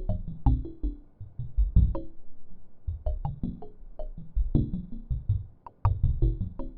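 Randomly generated synthesized notes, a quick irregular run of plucked, keyboard-like tones, each with a sharp attack that decays, overlapping one another.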